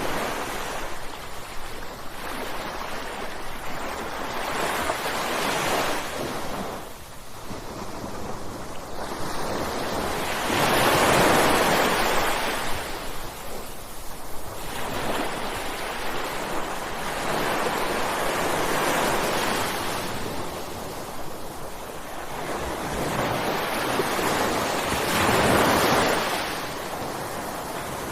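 Ocean waves breaking on a shore: five rolling surges of surf that swell and ebb every five to seven seconds, the loudest about eleven seconds in and again near twenty-five seconds.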